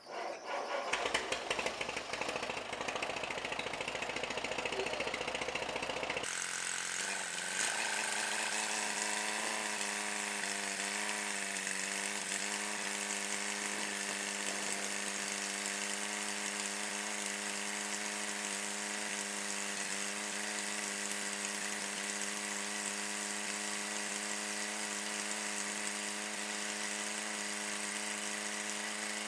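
Allis-Chalmers tractor being cranked over on its starter with a rattly, uneven sound for about six seconds, then switching abruptly to a steady, even drone of the engine running that holds for the rest of the time.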